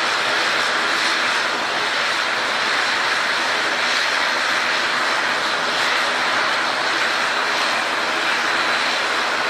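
Airliner engines running steadily: an even, loud rushing noise with a low hum under it and no change in pitch or level.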